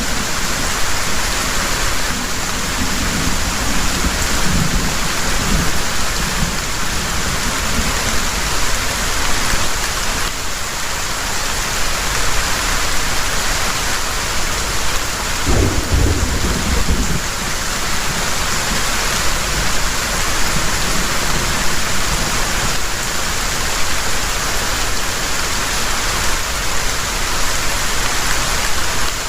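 Heavy rain pouring steadily, with low rumbles of thunder: a faint one at the start and a clearer rumble about halfway through.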